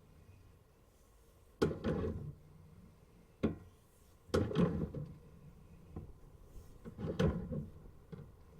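Sewer scope camera and its push cable being fed into a drain line, giving four separate dull knocks with rumbling scrapes, a second or two apart.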